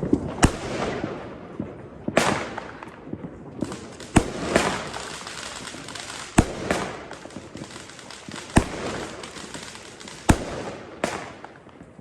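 Consumer fireworks going off: a series of sharp bangs every one to two seconds, each trailing off into crackling.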